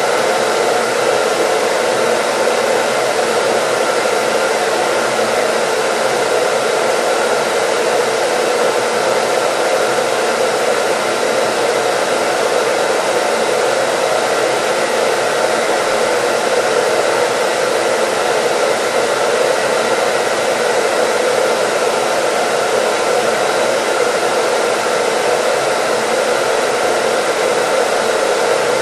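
Hair dryer running steadily, an even, unchanging rush of air noise with a faint steady whine in it.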